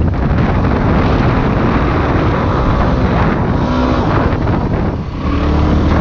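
Dirt bike engine running under heavy wind noise on the microphone while riding, with the engine's pitch showing through briefly a couple of times near the end.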